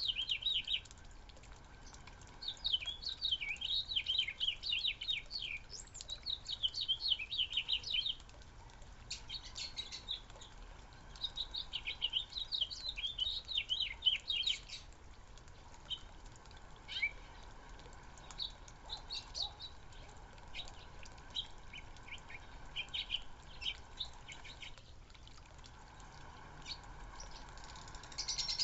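Small backyard birds chirping and twittering in quick chattering bursts, several voices overlapping, busiest in the first half and thinning to scattered chirps later.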